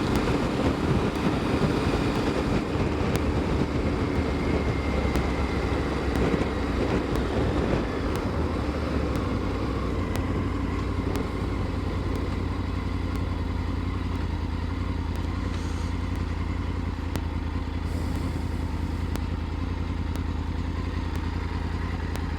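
Triumph Tiger 900 GT Pro's three-cylinder engine running at a steady cruise on the road, with wind rushing over the microphone.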